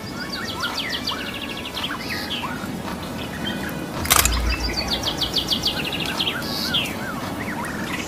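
Several small birds singing: rapid high trills of evenly spaced notes, repeated, mixed with short rising and falling whistled chirps. A single sharp knock about four seconds in.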